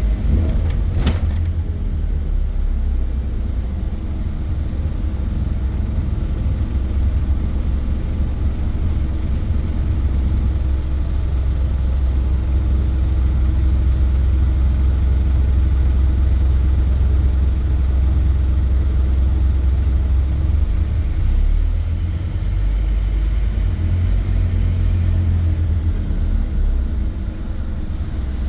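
Scania N230 bus running on the road, a deep steady engine and drivetrain rumble, with a single sharp click about a second in.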